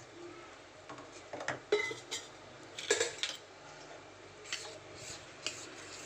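A spoon clinking and scraping against a bowl in irregular strokes while ragi flour is stirred with a little water into a lump-free paste.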